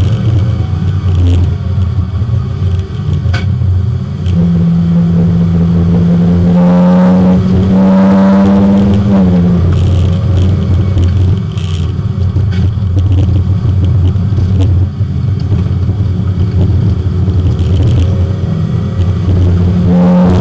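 Porsche 924 race car's four-cylinder engine under load on track, heard inside the cabin over a steady low drone. The engine note climbs steadily for about five seconds from about four seconds in, then drops sharply (a lift or gear change), and starts climbing again near the end.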